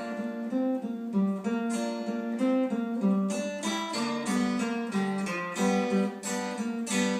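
Acoustic guitar playing an instrumental passage: strummed chords in a steady rhythm, the notes changing with each stroke.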